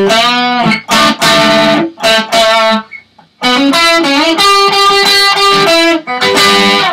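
Electric guitar playing a lead phrase with bent notes and repeated notes, in two short runs with a brief gap about three seconds in.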